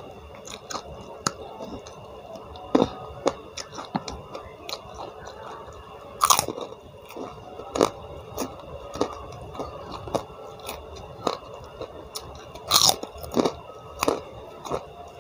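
Close-miked mouth sounds of a person chewing and biting crunchy raw food, raw leunca berries, with irregular sharp crunches; the loudest come about six and about thirteen seconds in.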